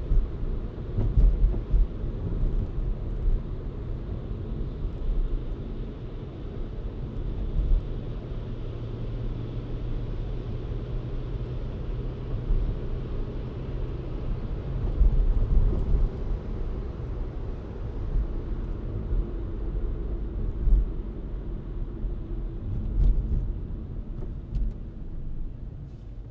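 Car driving, with a steady low rumble of engine and road noise and a few brief louder swells.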